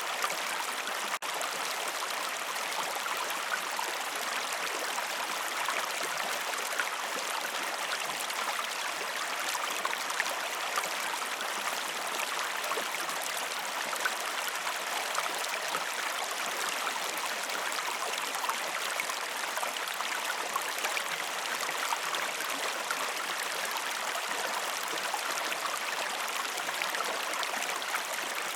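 River water flowing steadily: an even rushing with small splashes scattered through it. The level dips briefly about a second in.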